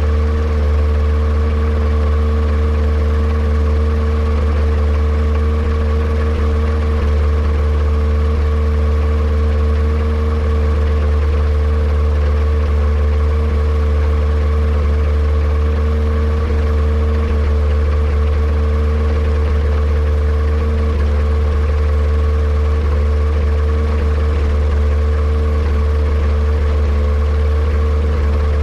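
Yamaha Apex four-cylinder engine on a Kitfox airplane running steadily at one speed, with no change in revs, while a misfire and a possible vacuum leak are being investigated.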